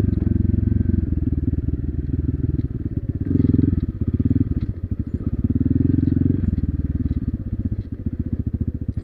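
Motorcycle engine running while being ridden. Its low, pulsing note swells and eases several times as the throttle is opened and closed.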